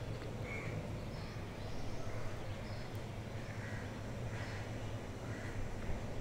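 Quiet frying of onion, garlic and green chillies in oil in a non-stick kadhai as they are stirred, over a low steady hum, with faint bird calls coming through several times.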